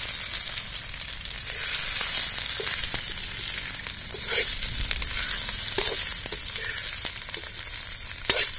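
Hot oil sizzling in an iron kadai as boiled egg yolks are tipped in with curry leaves and ginger-garlic paste. They are then stirred with a metal spatula, which scrapes and clicks against the pan now and then.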